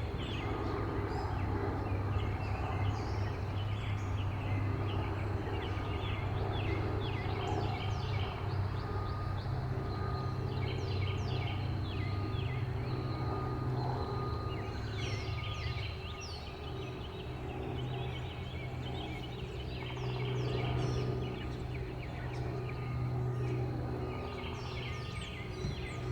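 Several small backyard birds chirping, with many short, high chirps overlapping one another, over a steady low hum of background noise.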